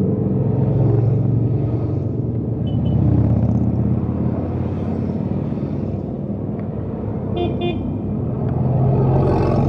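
Motorcycle engines running in a group ride, a steady low hum, with two short horn toots about three-quarters of the way through.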